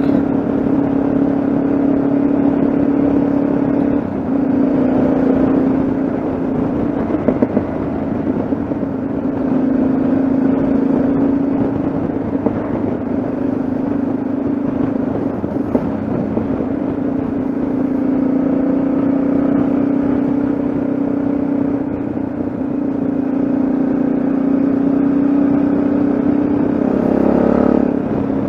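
Yamaha XT660Z Ténéré's single-cylinder engine running steadily under way, with road noise. The engine note dips briefly about four seconds in and shifts again near the end.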